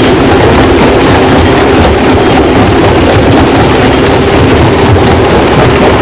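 Heavy rock-crushing machinery running: a loud, steady mechanical din with a constant low hum and no clear breaks or single impacts.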